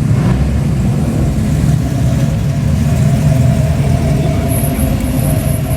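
Car engines running with a steady low rumble from their exhausts, as cars sit queued and creep along.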